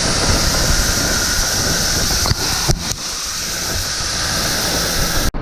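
Corn pouring into a truck with an engine running underneath: a loud, steady rushing hiss over a low rumble, broken by a few abrupt cuts.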